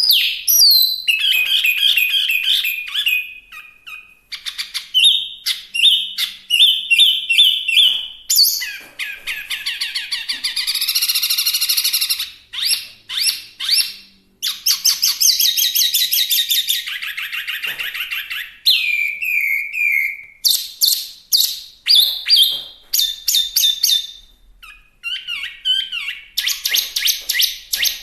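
Chinese hwamei singing a long, varied song of rapid repeated trills and loud whistled phrases, with brief pauses between phrases.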